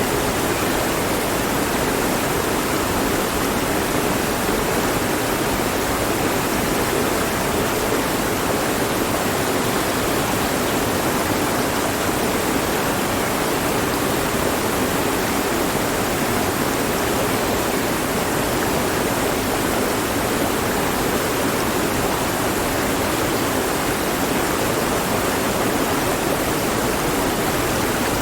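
Mountain stream flowing over rocks, a steady, even rushing of water with no breaks.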